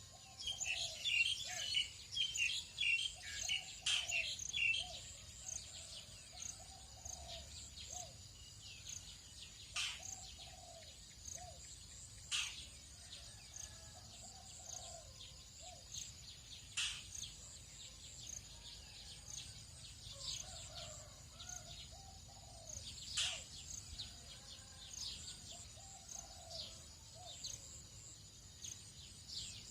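Tropical dawn chorus: several birds calling at once, with busy chattering in the first five seconds, sharp sweeping whistles every few seconds and a repeated lower phrase, over a steady high insect drone.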